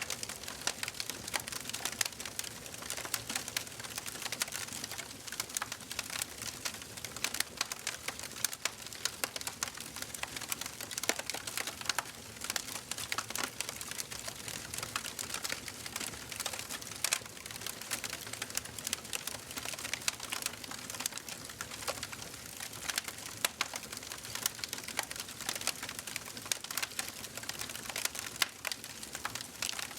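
Wood fire burning in a fireplace: a steady soft hiss with dense, irregular crackles and pops throughout.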